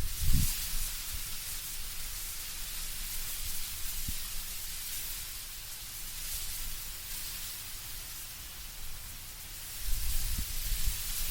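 Wind blowing through autumn trees, leaves rustling in a steady hiss. Deeper gusts of wind come briefly just after the start and again near the end.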